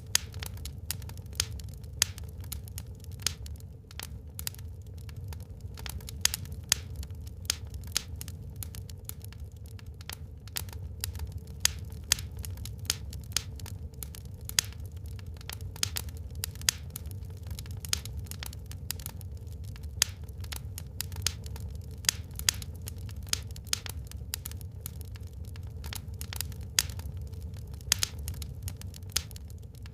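Wood fire burning in a fireplace: irregular sharp crackles and pops, several a second, some much louder, over a steady low rumble of the flames.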